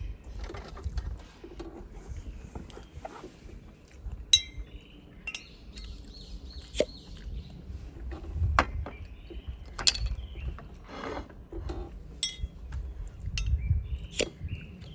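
Dishes and utensils clinking and knocking as they are handled: irregular sharp clinks, with about six louder ones spread out.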